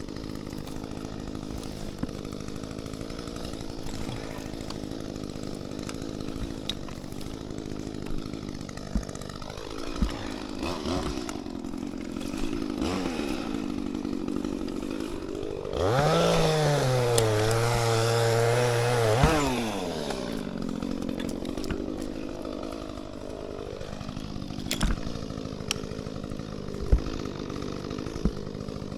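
Echo CS-355T two-stroke top-handle chainsaw idling steadily, then revved hard about halfway through for three or four seconds, its pitch jumping up and then sagging lower while held at throttle, before dropping back to idle.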